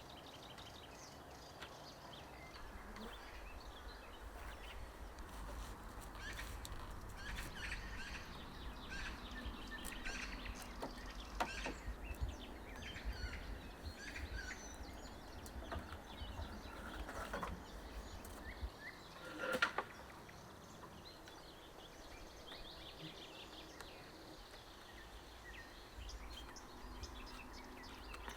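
Small birds chirping off and on in a forest over a low rumble, with a few sharp clicks or knocks, the loudest about two-thirds of the way through.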